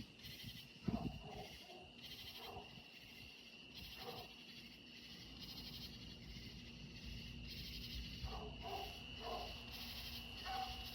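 A dog barking at deer: one sharp bark about a second in, then several fainter barks spaced out over the rest. Under it runs a summer night insect chorus, with a steady cricket trill and a pulsing higher buzz.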